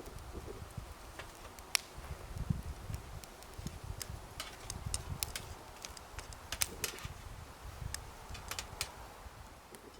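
Irregular sharp clicks and crackles, unevenly spaced, over a low rumble.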